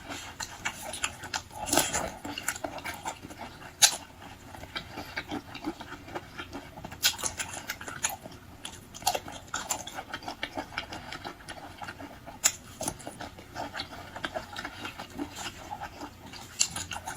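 Close-miked chewing, biting and lip-smacking of someone eating chewy seafood, with irregular wet clicks.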